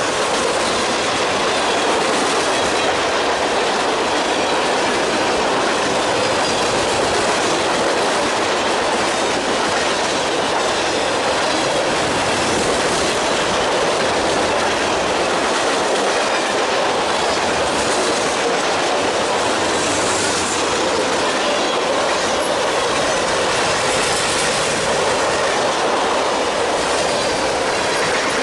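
Canadian Pacific freight train of covered grain hopper cars rolling past close by: a steady, loud rumble and clatter of steel wheels on the rails.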